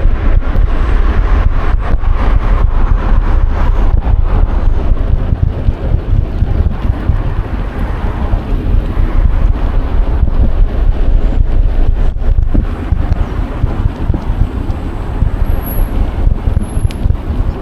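Wind buffeting an action camera's microphone during a bicycle ride, a steady low rumble, with road traffic noise that is strongest in the first few seconds.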